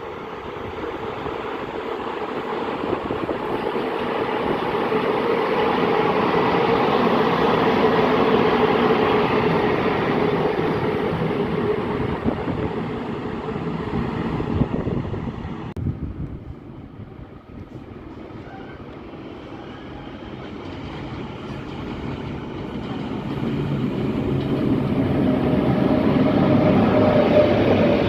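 Trains running past: one swells to its loudest about a third of the way through, then the sound drops away suddenly just over halfway, and it builds again as another train approaches toward the end.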